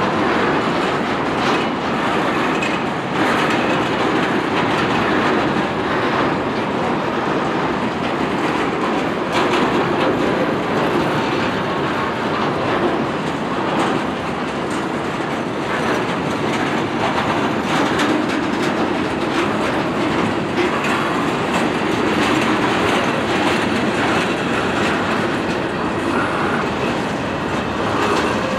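Freight train wagons rolling past in a steady rumble, wheels clicking over the rail joints, with a faint wheel squeal now and then.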